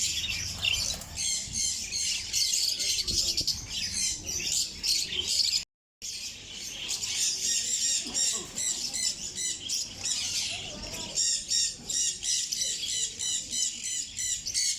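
Many caged small birds calling at once, a dense, continuous chatter of overlapping high-pitched chirps and squawks. The sound cuts out completely for a moment about six seconds in.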